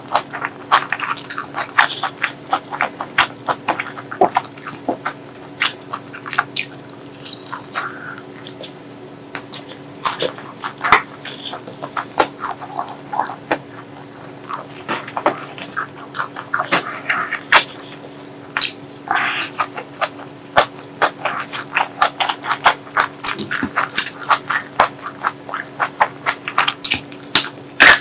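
Close-miked eating sounds: chewing and lip-smacking with many quick, irregular wet clicks and crackles.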